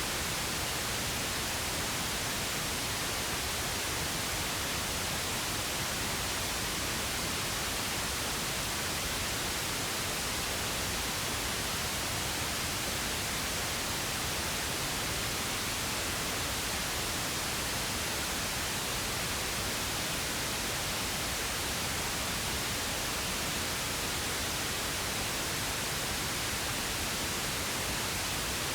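Steady synthetic pink noise: an even, unbroken hiss spread across the whole range, with no change in level.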